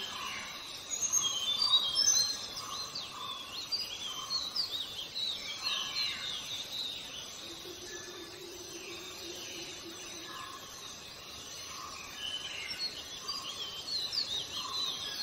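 Several birds chirping and whistling over a steady background hiss of outdoor ambience. There are many quick rising and falling notes, with a lower call repeated every second or so.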